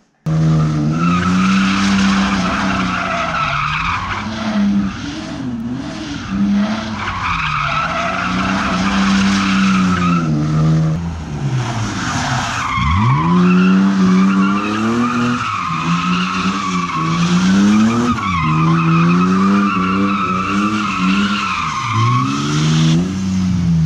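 BMW M52 straight-six being revved hard, its pitch climbing and dropping again every two to three seconds, with the tyres squealing as the car slides.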